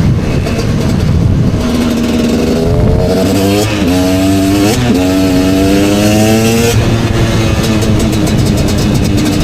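KTM 250 two-stroke motorcycle engine running loud, its note climbing, dipping sharply twice in the middle and climbing again, then dropping to a steady lower note for the last few seconds.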